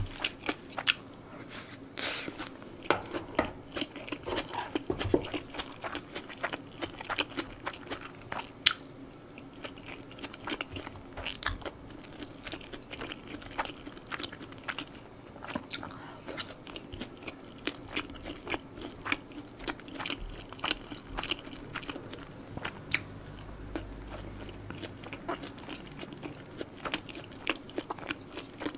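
Close-miked chewing and biting of someone eating rice and stir-fried spicy pork, with frequent short clicks and taps throughout, over a faint steady hum.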